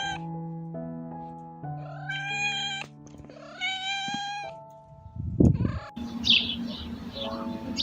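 Domestic cat meowing twice, each meow rising and then held, over background music with sustained notes. A short loud low burst of noise follows, then brief high bird chirps near the end.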